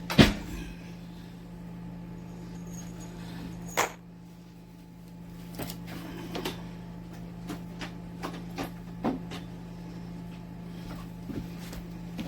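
A series of sharp clicks and knocks, one loud click at the start and another about four seconds in, then lighter clicks every half second or so for several seconds, over a steady low hum.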